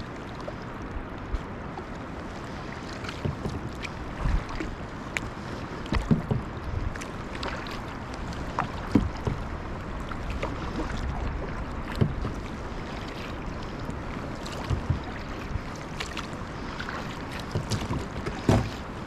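Kayak paddling through floating glacier ice: irregular knocks, clicks and thumps from the paddle and from ice against the hull, over a steady wash of water.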